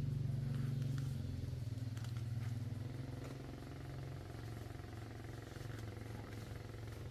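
A vehicle engine running with a steady low tone, loudest at the start and fading over the following seconds.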